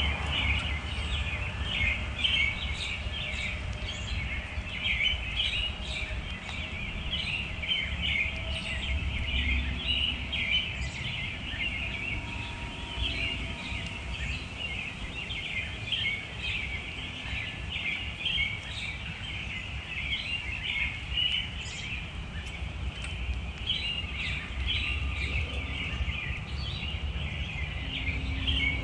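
A dense, continuous chatter of many small birds chirping over a steady low rumble.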